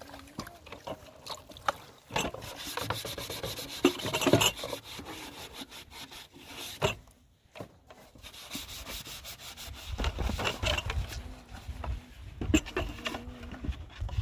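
Irregular scraping and rubbing strokes, with a short pause about halfway through.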